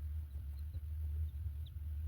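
A steady low rumble, with a few faint, very short high bird chirps scattered through it.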